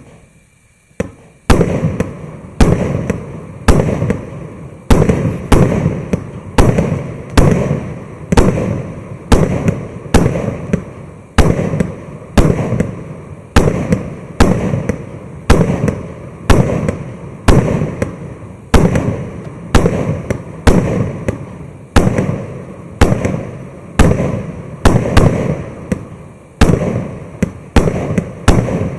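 Maxsem SB-120-01 fireworks battery firing shot after shot: sharp bangs a little over one a second, each trailing off before the next.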